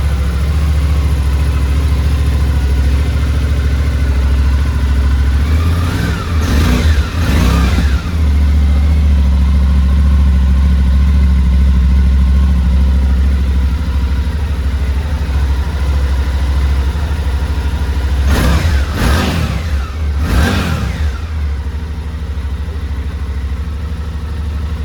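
Suzuki V-Strom 800DE's 776 cc parallel-twin idling steadily, revved with a few quick throttle blips about six to eight seconds in and again around eighteen to twenty-one seconds in.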